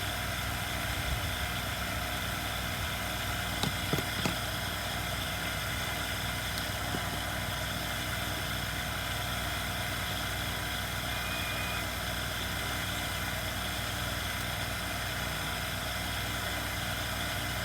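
Steady mechanical hum, with a few light clicks about four seconds in.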